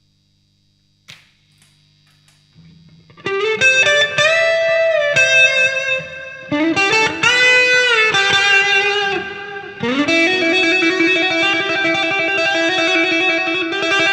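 1995 Fender Strat Plus electric guitar played through a Fractal FX8 MK2 effects unit with a driven tone. After a click and a faint hum, it plays sustained lead notes with string bends, then a held chord that wavers.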